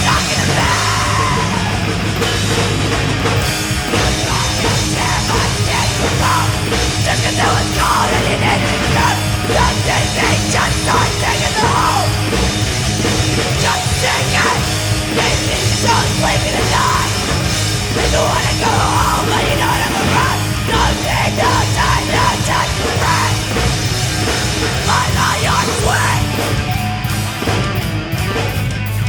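Live hard rock band playing: electric guitars, bass and drum kit in an instrumental stretch, with a run of sharp cymbal hits near the end.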